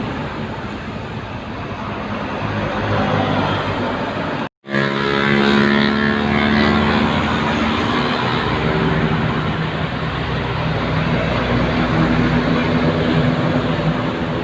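Heavy trucks running past on a highway: a steady mix of engine and tyre noise. The sound cuts out for a moment about four and a half seconds in, and after that a truck engine's pitched drone is louder.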